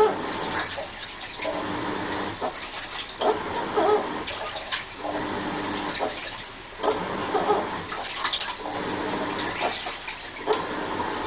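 Washing machine on its wash cycle: water sloshing as the drum or agitator swings back and forth, with a strange squeaking, moan-like noise on each stroke, repeating every one to two seconds.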